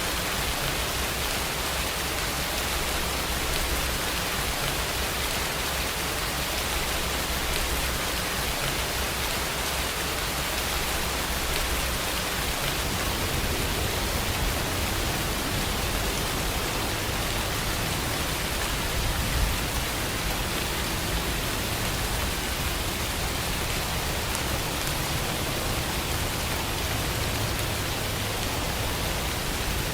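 Steady, heavy rain with an even hiss and no distinct drops standing out. A low rumble underneath swells about halfway through.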